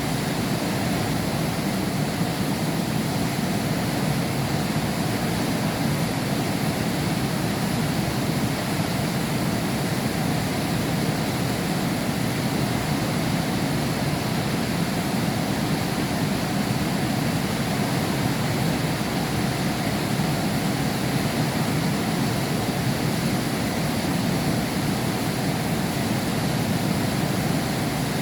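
Heavy rain falling steadily, heard through window glass: an even, unbroken rush with no thunder.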